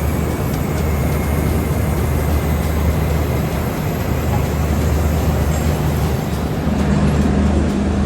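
A steady, loud mechanical drone: a low hum under an even rushing noise.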